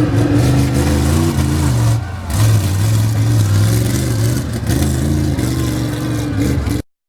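Monster truck's large engine revving hard, its pitch rising and falling, with a short drop about two seconds in. The sound cuts off abruptly near the end.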